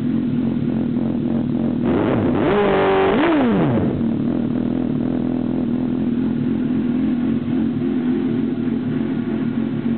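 Suzuki GSX-R 600 K5 motorcycle's inline-four engine idling, revved once about two seconds in with a quick rise and fall in pitch, then settling back to a steady idle. The camera microphone makes it sound a little odd.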